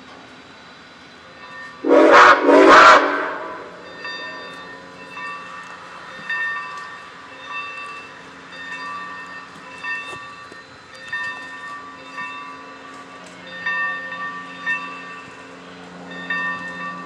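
Two short blasts on a steam locomotive whistle, the usual signal that the train is about to move, followed by the locomotive's bell ringing steadily, about one stroke a second, over a low hum.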